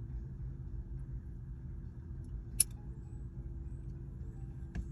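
Steady low rumble with a faint steady hum, and a single sharp click a little over halfway through.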